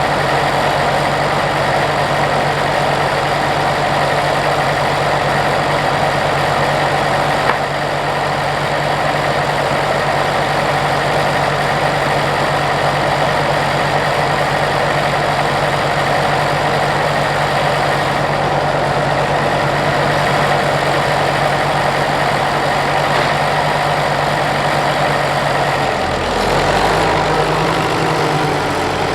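Ferguson TEF diesel tractor engine ticking over steadily at idle after a start on a weak battery. Its note changes near the end.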